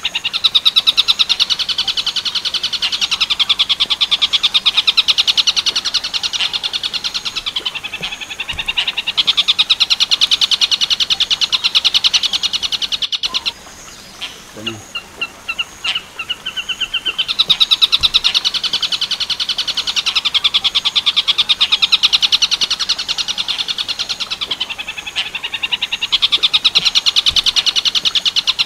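Tengkek buto song: long bouts of a fast, rattling run of high notes, broken once near the middle by a pause of a few seconds with only a few short chirps.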